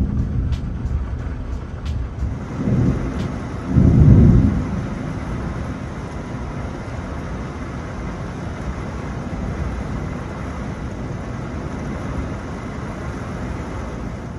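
Thunder rumbling twice, about three and four seconds in, the second the louder, over a steady hiss of summer rain.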